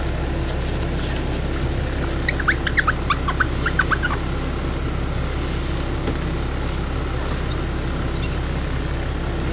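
Steady low drone of a single-car diesel railcar's engine heard from inside the cabin. About two seconds in, a quick run of some ten sharp, high chirps lasts just under two seconds.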